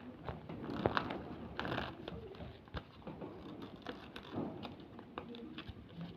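Paper being folded and handled by hand: irregular crinkling and rustling with scattered sharp clicks and creases.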